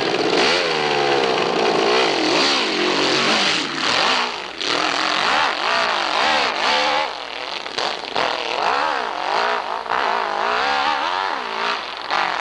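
Competition hillclimb motorcycle engine running hard, its pitch rising and falling over and over, about once a second, as the revs swing up and down.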